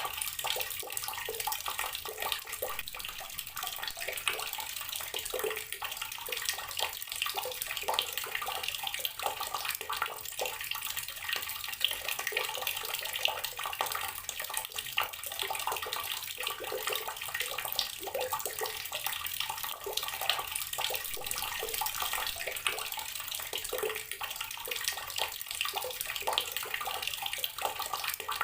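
Water running steadily from an outdoor garden tap, a continuous splashing stream with no break.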